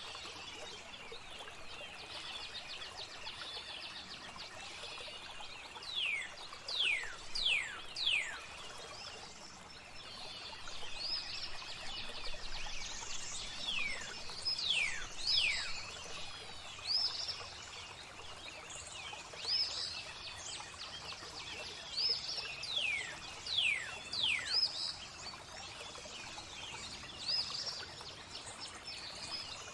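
Birds singing over steadily flowing water: clear whistled notes that slide steeply down in pitch, in runs of three or four a few seconds apart, with shorter high chirps between them, over a continuous water hiss.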